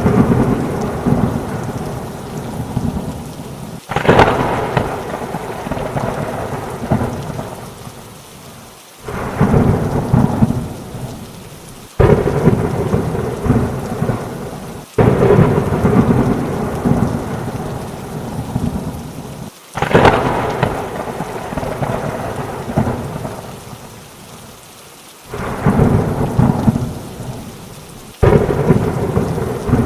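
Thunderstorm: heavy rain with rolling thunder. About seven loud claps start abruptly every three to five seconds, and each rumbles away before the next.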